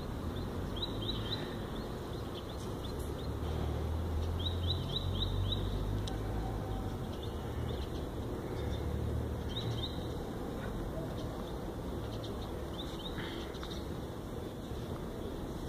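Small birds chirping in quick runs of short, high notes, several times over, above a steady low background rumble.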